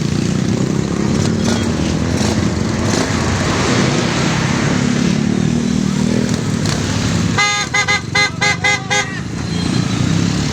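Motorcycle engines running steadily, then a horn giving about six quick short beeps in a row near the end.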